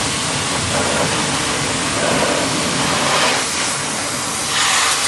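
High-pressure washer jet spraying water at a car wash: a loud, steady hiss whose tone shifts a little past the middle as the spray moves over the surface.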